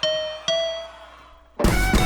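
Guitar solo on stage: two single picked notes ring out and fade, then about one and a half seconds in the drums and full band come in with a loud crash.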